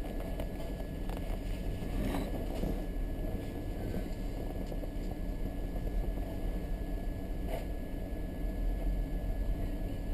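Car engine idling, heard from inside the cabin as a steady low rumble, with a few faint knocks about two seconds in and again near the end.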